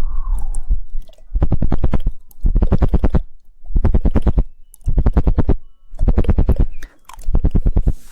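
Rapid tongue clicking into the microphone, a person imitating a woodpecker drumming: about six quick trains of clicks, each about a second long, separated by short pauses, with a soft wet mouth sound in the first second.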